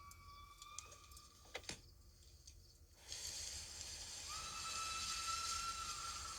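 Steam locomotive letting off steam: a steady hiss that starts suddenly about three seconds in, with a thin, steady whistle-like tone over it from about a second later. A few faint clicks come before the hiss.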